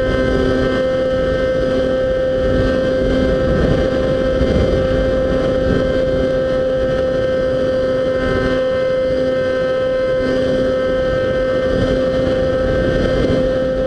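RC model plane's motor and propeller running in flight with a steady high tone, heard from on board, over heavy wind rushing across the microphone.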